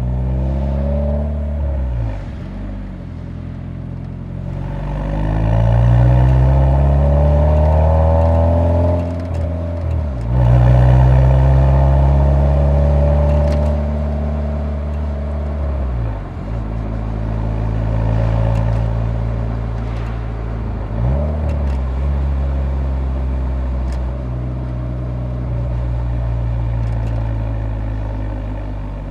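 Exhaust note of a Nissan 180SX's SR20 four-cylinder engine while driving: the engine pulls up through the revs, and its pitch drops briefly at each of several gear changes. It is loudest in the middle.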